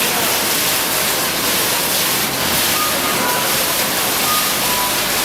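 Fountain water splashing and falling in a steady, loud rush, with a few faint short high tones over it in the second half.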